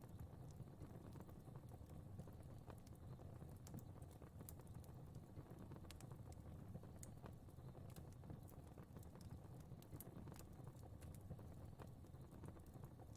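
Faint fireplace fire crackling: irregular small pops and snaps, a few a second, over a steady low rumble of the flames.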